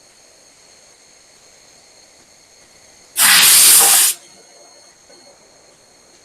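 A single blast of compressed air hissing loudly for about a second, then cutting off sharply, over a faint steady high-pitched whine.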